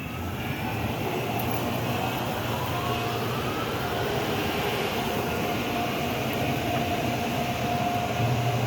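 Car on the move: steady engine and road noise with a low engine hum. A faint rising whine comes a second or two in, and the engine note swells near the end.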